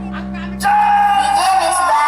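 Loud music from a large 'sound horeg' sound system: a held low bass note for about half a second, then a louder sung or lead melody line with bending pitch comes in.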